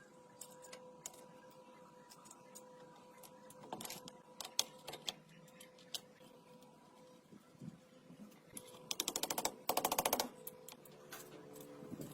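Workshop hand work: scattered sharp metal clicks and taps over a faint steady hum, then a loud, fast mechanical rattle lasting about a second and a half near the end.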